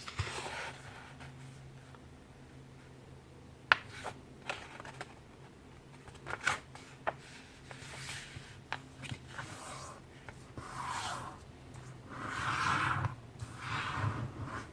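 A sheet of letter-size printer paper being folded in half by hand. A few sharp crinkles and taps as the sheet is lined up, then longer rubbing sounds from about ten seconds in as the crease is pressed flat.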